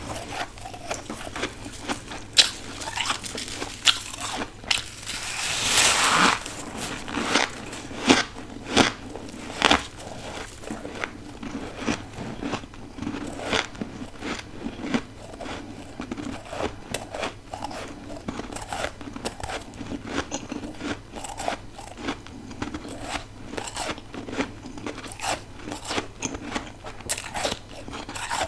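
Frozen ice being bitten and chewed close to the microphone: irregular sharp crunches and crackles, loudest in the first ten seconds and then smaller and quicker.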